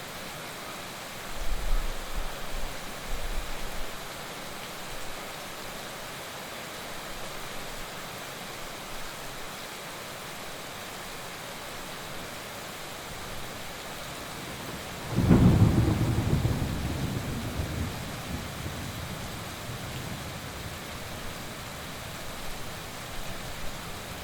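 Heavy rain falling steadily during a thunderstorm. A low rumble of thunder comes about a second in, and a loud, sudden thunderclap hits about fifteen seconds in, rumbling away over a few seconds.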